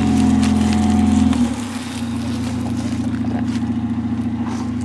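Car engine running, held at a higher speed at first and then dropping to a steady idle about a second and a half in.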